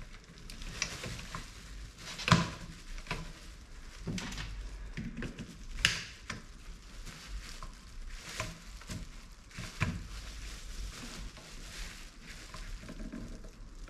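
Irregular clicks, taps and light scraping of window regulator parts being handled and worked apart, with sharper knocks about two seconds in and again near six and ten seconds.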